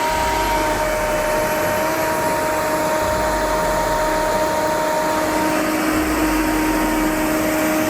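John Deere 4730 self-propelled sprayer running steadily while stuck in soft ground: a rushing machine noise with a high steady whine, joined by a lower whine about halfway through.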